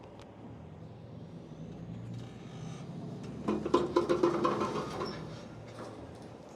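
Vehicle engine running at low revs, building to a louder, higher-revving stretch with some clanking about halfway through, then easing back.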